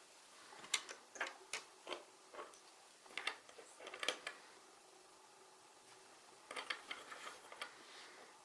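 Small plastic Sluban building bricks clicking and clacking as pieces are handled and pressed together: two clusters of irregular sharp clicks with a pause between.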